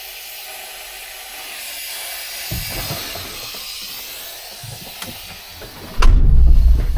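Compressed air hissing steadily from the Scania 143H's air system, which is low on air. It cuts off about six seconds in, and a loud, low rumble follows for about a second.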